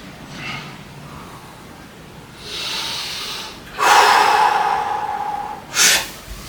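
A person breathing hard during weight training: a hissing breath, then a long forceful exhale with a strained voiced tone through it, and a short sharp breath near the end.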